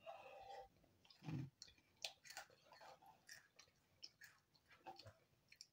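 Faint chewing of spicy chicken cup noodles, with scattered small clicks of mouth and fork throughout and a brief low mouth sound about a second in.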